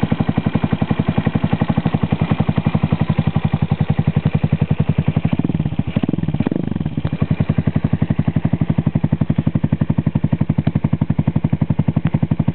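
Bashan BS200 S7's single-cylinder engine idling through an Arrow aftermarket exhaust, with an even, pulsing exhaust beat. About five and a half seconds in it is blipped once, rising and falling over about a second and a half, then settles back to idle.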